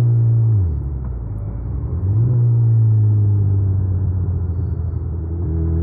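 2019 Suzuki Hayabusa's inline-four engine running under way. Its note drops sharply about half a second in, picks back up about two seconds in, then holds steady.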